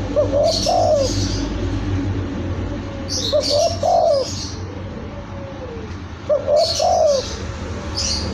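Spotted dove (tekukur) cooing: three phrases of short rising notes, about three seconds apart.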